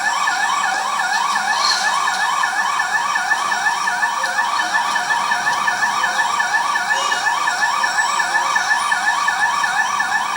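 Emergency vehicle siren sounding in a fast yelp, its pitch rising and falling about three or four times a second without a break, heard off a television broadcast.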